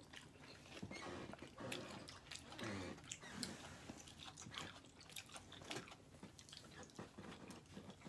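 Pizza being bitten and chewed close to the microphone: a run of faint, irregular small clicks and crunches.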